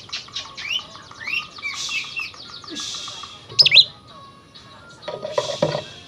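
Oriental magpie-robin (kacer) singing vigorously: a varied run of fast chattering notes and rising whistles, with a loud, sharp double whistle about halfway through.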